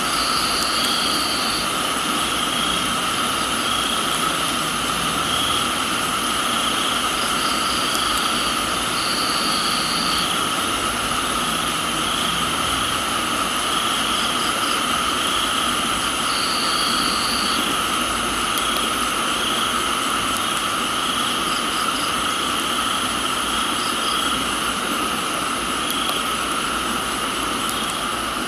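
Steady rain with a dense chorus of crickets and other insects, several trills layered at different pitches, one pulsing about once a second. A higher trill comes in short spells of a second or so, a few times.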